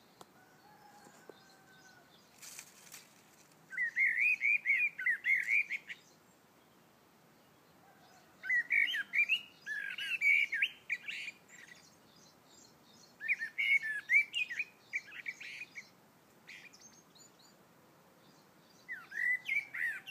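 Birds chirping in four bouts of quick, high chirps, each a second or two long, with quieter stretches between.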